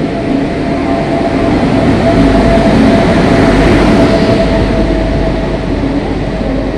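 An Indian Railways passenger train arriving at a platform: the electric locomotive rumbles past, then the coaches roll by. The sound swells to its loudest a few seconds in as the locomotive passes, then eases a little as the coaches follow.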